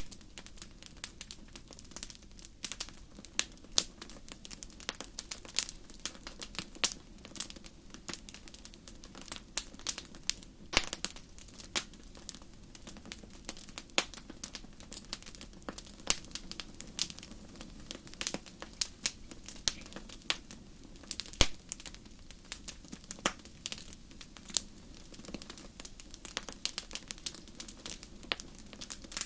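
Wood fire burning in a fireplace, crackling with many irregular sharp pops and snaps over a steady low background.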